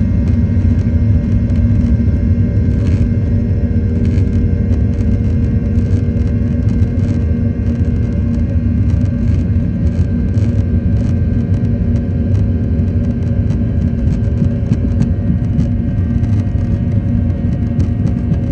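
Airliner on its takeoff run: a loud, steady engine rumble with a low droning hum, and scattered light clicks and rattles.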